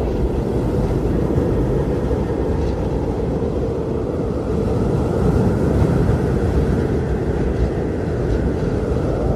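Strong blizzard wind blowing steadily with a deep rumble, a gust swelling and howling slightly about halfway through.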